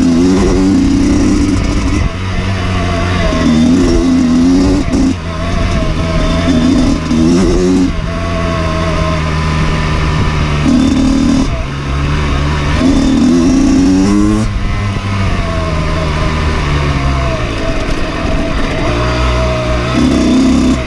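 Dirt bike engine being ridden, revving up and down through the gears, with the pitch climbing and dropping every few seconds.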